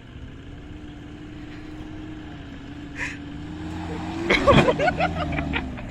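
Toyota HiLux engine running and slowly getting louder, heard from inside the cab as the ute is driven over rough ground. About four seconds in comes a loud burst of knocks and rattles as the vehicle is jolted.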